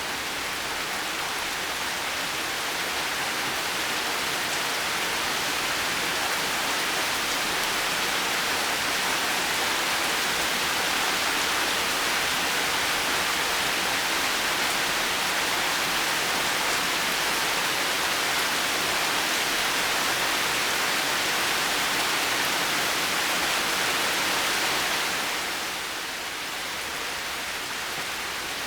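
Heavy rain falling steadily, a dense even hiss. It swells a little louder early on and eases back about 25 seconds in.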